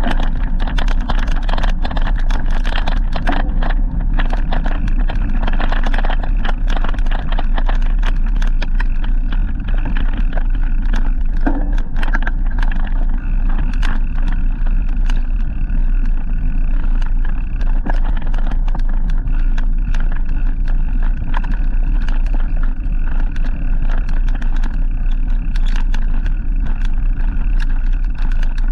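Loud, steady wind and road noise from a moving bicycle, with frequent small rattles and knocks throughout.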